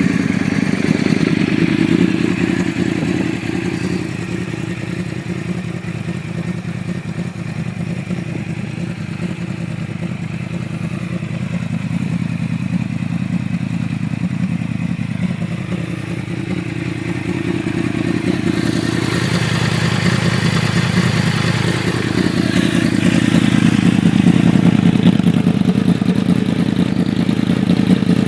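Yamaha R1's inline-four engine running just after start-up, idling. Its pitch dips and rises a few times and it gets louder in the second half.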